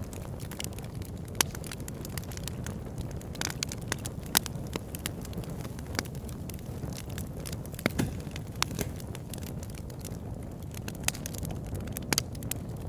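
A large log burning in a converted oil drum, crackling with irregular sharp pops over a steady low rumble.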